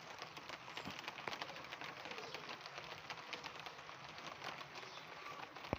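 Rain falling on the wooden cabin's roof: a faint, dense patter of irregular little ticks over a soft hiss.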